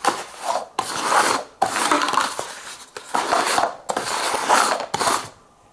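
Paper cups being slid and shuffled across a tabletop: a string of rubbing, scraping strokes that stops near the end.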